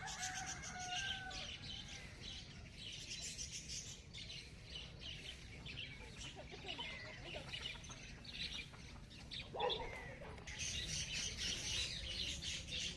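Many small birds chirping together in a morning chorus, growing denser near the end. One louder, lower call comes about ten seconds in.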